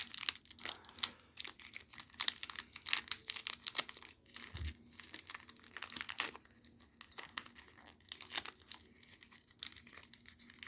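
A trading-card booster pack wrapper being torn open and crinkled by hand, an irregular run of crackles with a short dull thump about halfway through.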